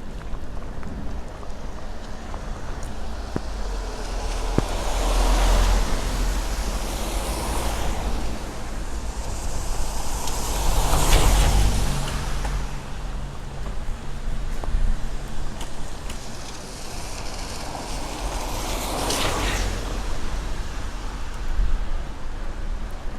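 Vehicles passing on a wet road, their tyre hiss swelling and fading three times, one with an engine note clearly audible as it goes by about halfway through. A steady low rumble of wind on the microphone runs underneath.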